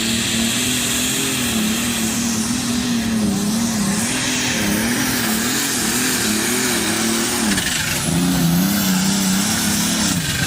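Engine of a competition pulling vehicle running hard under load down the pull track, its pitch surging up and down over and over. It dips briefly about seven and a half seconds in, picks up again, then falls away near the end as the driver lets off.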